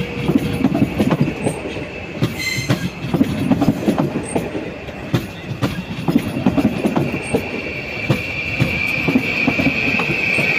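Train wheels rolling over rail joints and points in a run of irregular clicks and knocks, with a high steady wheel squeal that fades in the middle and swells again near the end.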